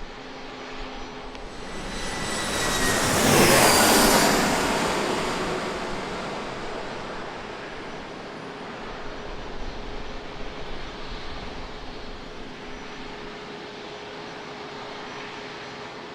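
Jet airliner engines passing close, a Boeing 737-800 with CFM56 turbofans, loudest about four seconds in with a whine that falls in pitch as it goes by, then a rumble fading away.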